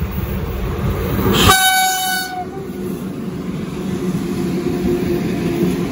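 Freight train hauled by a 2ES10 'Granit' electric locomotive, its wagons rumbling along the track. About a second and a half in, the low rumble drops abruptly and a locomotive horn sounds one short blast of about a second. The wheel rumble then continues.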